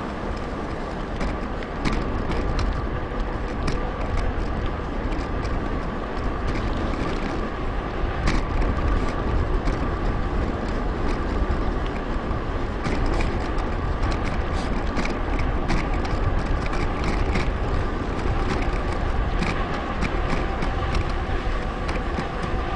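Steady rush of wind on an action camera's microphone while riding a mountain bike, with frequent small clicks and rattles from the bike rolling over the path.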